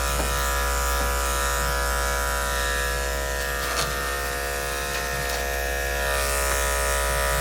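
Electric dog grooming clippers running steadily with an even buzzing hum while shaving off a matted coat, with a few faint clicks.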